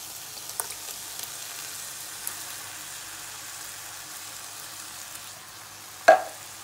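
Onion, garlic and bacon sizzling steadily in a frying pan as tinned chopped tomatoes are tipped in, with a few small clicks and one sharp knock about six seconds in.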